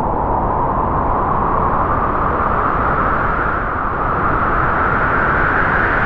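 Strong howling wind: a steady rush of wind whose howl rises slowly in pitch.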